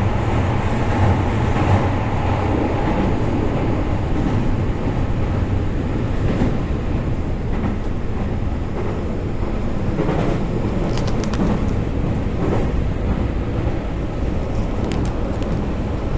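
Kobe City Subway Seishin-Yamate Line train heard from inside the car while running: a steady rumble of wheels and motors with a low hum and a few faint clicks.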